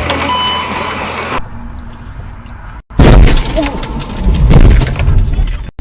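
Car crash: a sudden, very loud impact about three seconds in, followed by heavy crunching and rumbling that swells again before cutting off.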